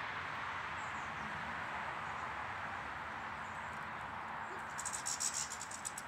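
Small garden bird giving a rapid, high-pitched trill for about a second near the end, over a steady outdoor rushing hiss, with a faint high chirp or two about a second in.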